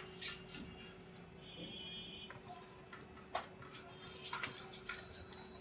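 Faint scattered ticks and taps, with one short buzzy chirp about two seconds in, likely from a small bird.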